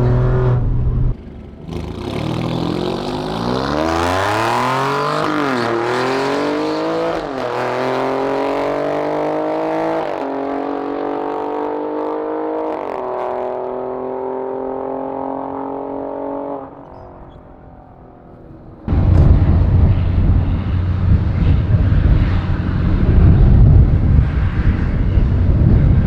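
Performance car accelerating hard on a drag strip run, its engine revving up through the gears: the pitch climbs and drops sharply at four upshifts, then holds steady. Later a steady low engine hum comes in under a loud rushing noise.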